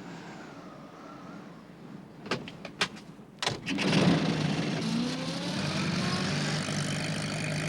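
A few sharp clicks and a clunk, like a van door being shut, then a small van engine starts and keeps running steadily, its pitch gliding up and down a little.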